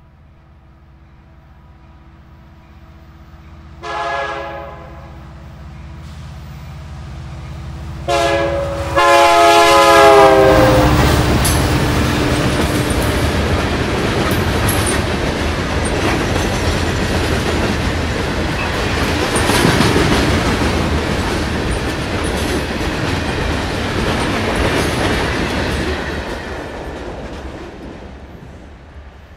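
CN EMD SD60 diesel locomotive approaching with its engine humming louder, sounding its multi-note horn: one short blast about four seconds in, then a short and a longer blast around eight to ten seconds. It passes close, and a long string of loaded rock hopper cars follows with wheels clattering over the rail joints, fading away near the end.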